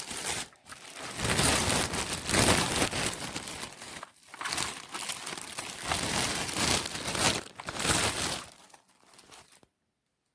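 Irregular crinkling, rustling noise that swells and fades in waves, then stops about nine and a half seconds in.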